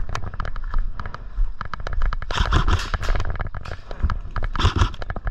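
Airsoft guns firing in rapid runs of sharp snapping shots, several a second, with two short rushes of noise in between.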